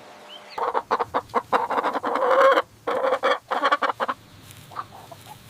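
Chicken clucking: a quick run of short clucks from about half a second in to about four seconds, then a few fainter clucks near the end.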